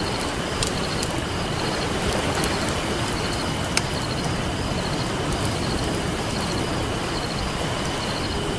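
Campfire crackling, with a few sharp pops (the loudest about four seconds in), over the steady wash of ocean surf. A faint, high, evenly repeating chirp runs underneath.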